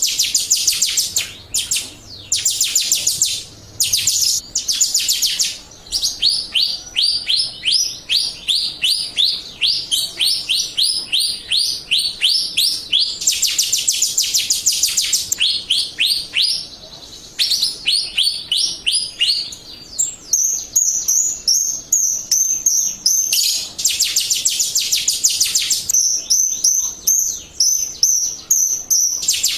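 Jalak rio bird singing, a lure song: long runs of quick, sharp repeated notes, about three a second, broken by stretches of a very fast trill. The last part has high, thin whistled notes.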